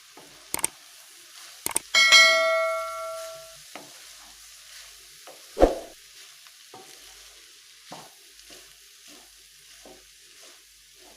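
Food sizzling as it fries in a pan while a utensil stirs it. About two seconds in, a sharp clang rings out for a second or so, like metal striking the pan. A loud knock comes near the middle, then lighter taps and scrapes as the stirring goes on.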